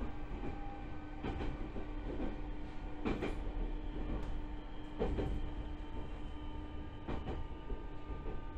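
Joshin Electric Railway 7000 series electric train running, heard from inside the car: a steady motor hum and rolling noise, with a clack from the wheels over rail joints about every two seconds.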